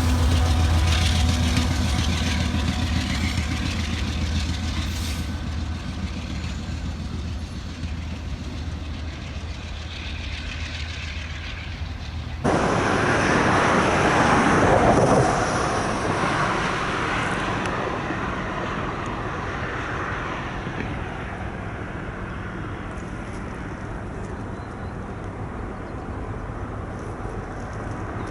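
Freight train diesel locomotives running, a steady low engine drone that slowly fades. About halfway through, a sudden cut to a louder rush of a train rolling past, which swells briefly and then fades.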